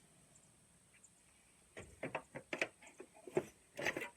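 An irregular run of sharp clicks and knocks, as of tools and parts being handled during mower-deck work, starting about two seconds in after a near-quiet start.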